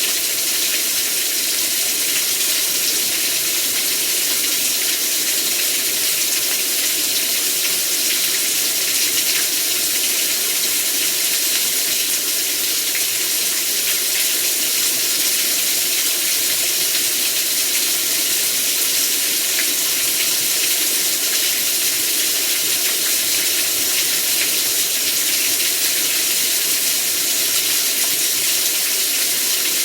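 Heavy rain pouring down in a steady, loud hiss, without pause.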